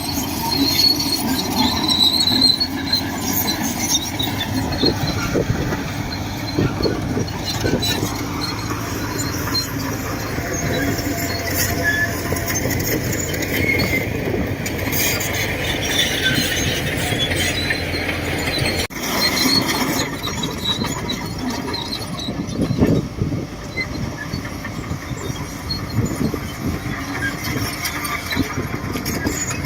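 Shantui DH17C2 crawler bulldozer working: its diesel engine runs continuously under load while the steel tracks clank and give off short high squeaks.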